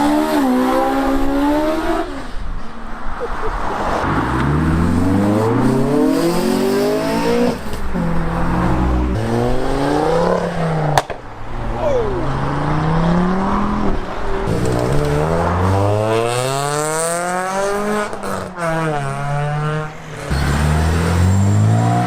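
Modified cars accelerating hard away one after another, engines revving up with rising pitch and dropping back at each gear change, again and again. A sharp click about halfway through.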